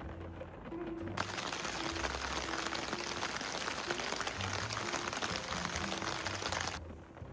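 Steady hiss of heavy rain that cuts in about a second in and stops abruptly near the end, over soft background music.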